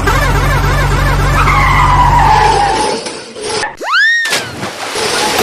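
Cartoon vehicle sound effects: an engine running with a tyre-skid squeal sliding down in pitch, then the engine cuts out and a quick whistle-like swoop rises and falls about four seconds in.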